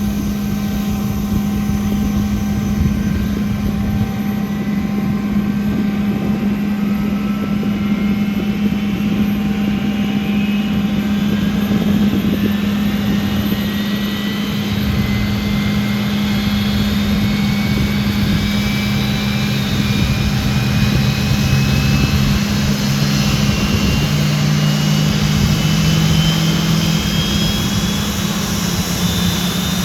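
Hawker Siddeley Nimrod's Rolls-Royce Spey jet engines running on the ground, their whine rising slowly and steadily in pitch as the engines spool up. A steady low hum runs underneath.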